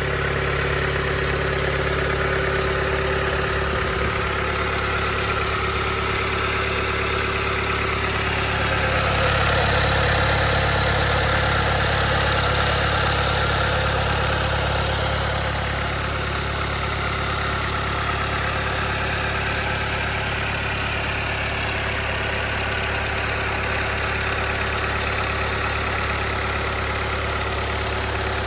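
Rebuilt Doosan DM02 (D24NAP) diesel engine from a Bobcat T64 track loader running steadily on a test run, getting a little louder for several seconds from about a third of the way in.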